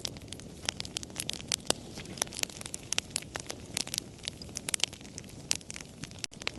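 Wood fire crackling and popping: many irregular sharp snaps over a steady low rumble of burning.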